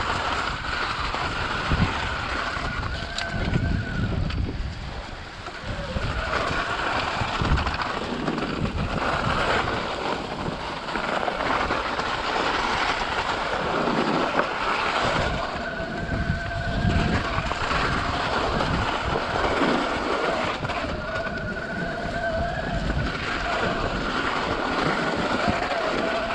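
Wind buffeting the microphone during a ride, with a steady vehicle whine coming and going underneath.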